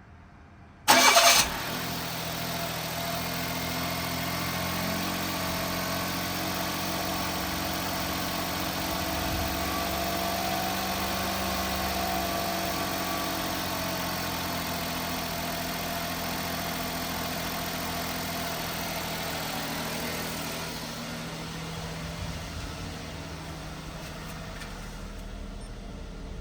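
Suzuki Palette SW's K6A 660 cc three-cylinder engine starting: a brief loud burst of cranking and catching about a second in, then a steady idle. The idle settles to a slightly lower, quieter note about three-quarters of the way through as it warms; the engine, at 190,000 km, runs smoothly, in what the owner calls good condition.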